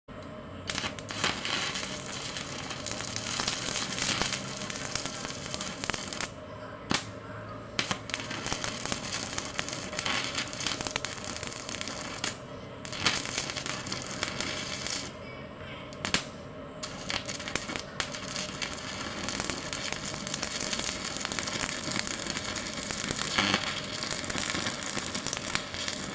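Welding crackling and spitting with sharp pops as the seam of a split-open refrigerator compressor shell is welded closed, stopping briefly a few times.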